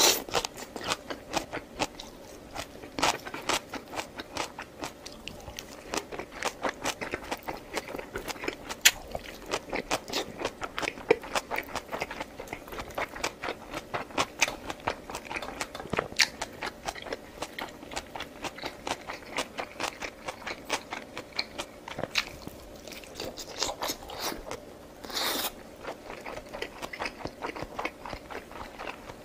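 A person chewing and biting food close to the microphone: a steady stream of crunchy mouth clicks with a few louder bites.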